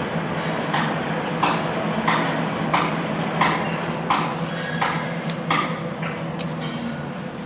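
Metal struck repeatedly, about one sharp ringing tap every 0.7 seconds for some five seconds, over a steady low hum.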